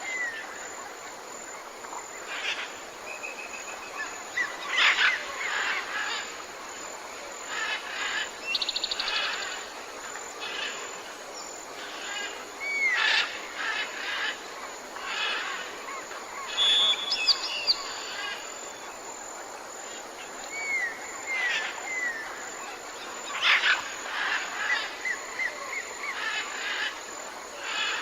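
Tropical forest birds calling: a mix of chirps, short arcing whistles repeated in quick runs, and fast rattling trills, with a steady high-pitched drone underneath.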